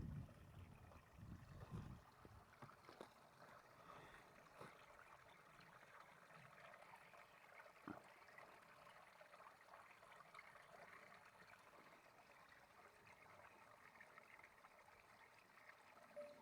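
Near silence: a faint, steady outdoor hiss with scattered faint ticks, a few soft low thumps in the first two seconds and one sharper tick about eight seconds in.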